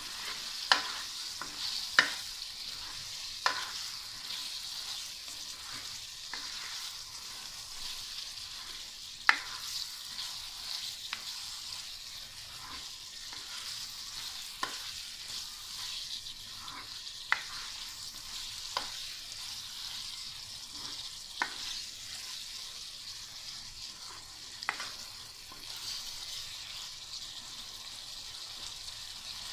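Chicken jalfrezi sizzling steadily in a kadai while it is stirred, with sharp knocks of the spatula against the pan every second or few seconds.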